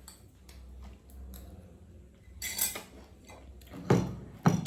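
Eating noodles: light clicks of utensils against a bowl, then a few short noisy bursts of slurping and breathing, the loudest two near the end.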